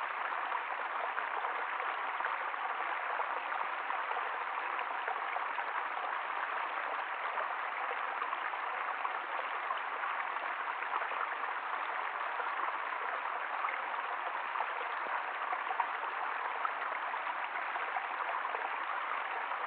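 Water flowing steadily, an even rushing sound without pauses.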